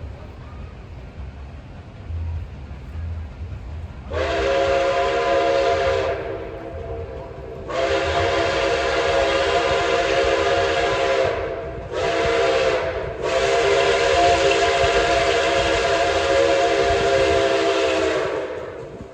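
Steam locomotive's multi-chime whistle blowing four blasts, long, long, short, long: the grade-crossing signal. A train rumbles underneath.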